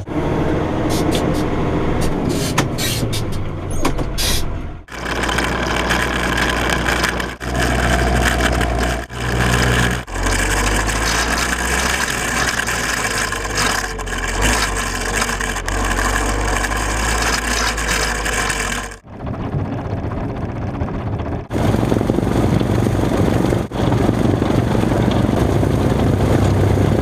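Tractor engines running during field work, in a series of short clips cut together, so the sound changes abruptly several times.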